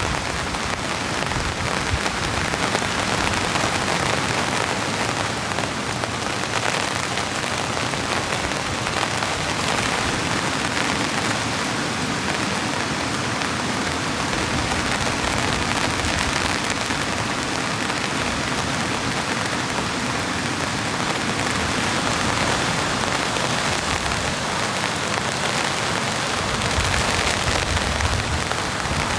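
Heavy rain falling on a tent's fabric, heard from inside the tent: a steady, dense hiss.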